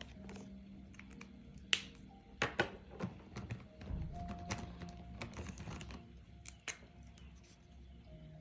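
A coloring pen tapping and scratching on paper: a series of sharp clicks and taps, with a stretch of scratchy rubbing in the middle, over soft background music.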